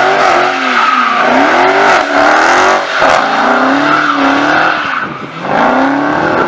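Mercedes E63 AMG engine revved hard, its pitch rising and dropping four or five times in quick succession, with tyre squeal over it as the wheels spin.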